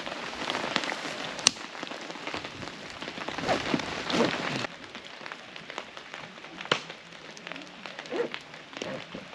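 Rain falling, with many separate drops ticking and tapping; the rain noise drops suddenly to a quieter level about halfway through.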